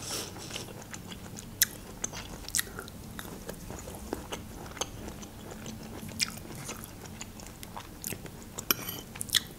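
Close-miked mouth sounds of a person chewing green olives: quiet chewing with sharp wet clicks and smacks every second or so.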